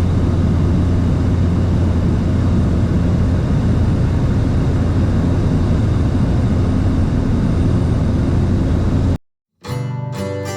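Steady drone of a light aircraft's engine and propeller, heard from inside the cabin. About nine seconds in it cuts off abruptly, and acoustic guitar music begins after a brief gap.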